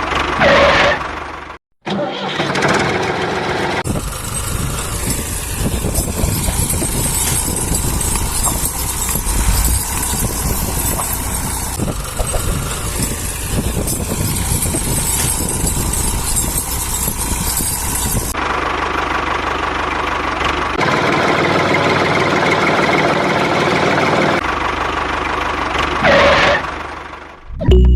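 An engine-like motor runs steadily in several edited stretches, with a falling whoosh near the start and another near the end.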